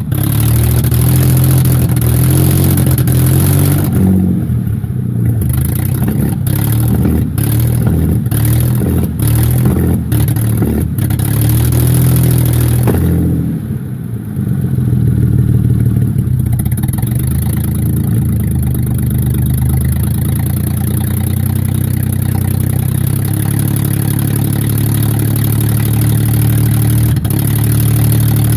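Mercedes W210 E240 petrol V6 running without an exhaust, loud and uneven with a misfire. A run of sharp pops sounds from about four to eleven seconds in, and the engine note dips briefly and picks up again a little past halfway.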